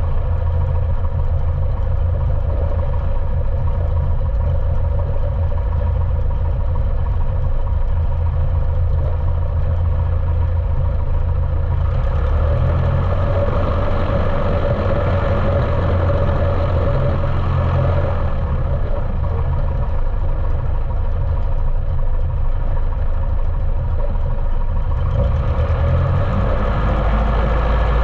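Continental O-200 four-cylinder engine of a Cessna 150L running steadily, muffled because the camera sits inside its waterproof case. Its sound changes for a few seconds around the middle and again near the end.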